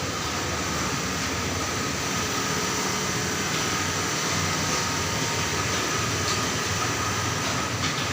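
Industrial template sewing machine running: a steady mechanical noise with a faint high whine.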